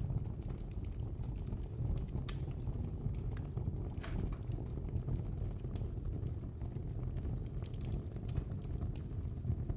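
Wood fire burning in a fireplace: a steady low rumble with scattered sharp crackles and pops, the loudest about two and four seconds in.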